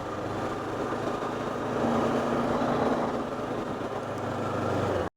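Motorcycle engine running under way with steady wind rush past the helmet. The engine note rises about two seconds in and then eases back. The sound cuts out abruptly for a moment near the end.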